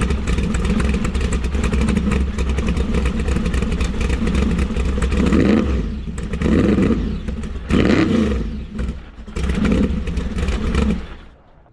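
Supercharged big-block V8 with dual four-barrel carburettors running with a loud, lumpy idle, blipped four times in the second half, then falling silent near the end.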